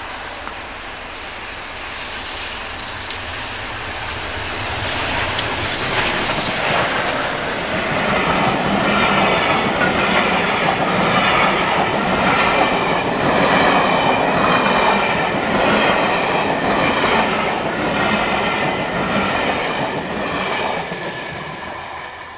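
A steam-hauled passenger train passing close by at speed, its coach wheels clattering and rumbling over the rails. The sound builds, is loudest while the coaches go by, and fades near the end as the last coach draws away.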